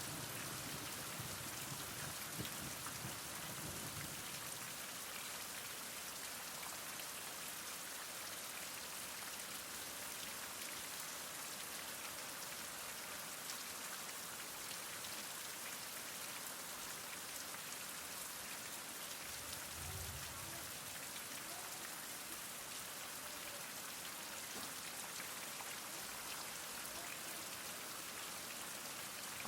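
Heavy rain falling steadily, an even hiss of countless drops on surfaces.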